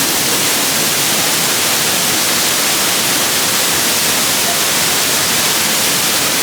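Waterfall close by: a loud, steady hiss of falling water.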